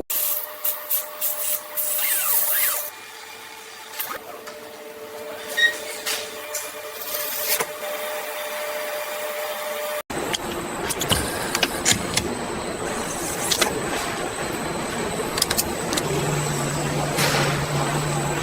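Factory machinery noise: hissing air and scattered sharp clicks over faint steady tones. About halfway through it cuts abruptly to a denser, steadier machine noise, still with clicks.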